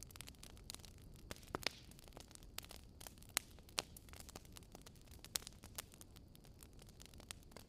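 Wood fire crackling: irregular sharp pops and snaps over a soft low rumble, the loudest pop a little over three seconds in.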